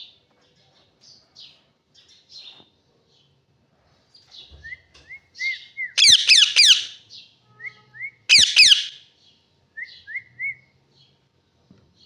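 Pet parrot calling: soft scattered chirps, small runs of three short whistled notes, and two loud harsh screeching calls, the first about halfway through and the second a couple of seconds later.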